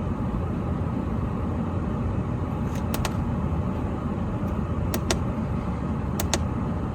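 A steady low rumble, with a few pairs of light, sharp clicks from the buttons of a handheld key programmer as its menus are stepped through: about three seconds in, about five seconds in and about six seconds in.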